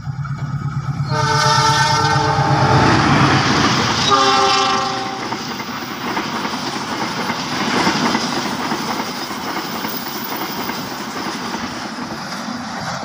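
CC 206 diesel-electric locomotive approaching with its engine running, sounding two horn blasts about a second and four seconds in, followed by the rushing noise and clattering wheels of its passenger coaches passing close by.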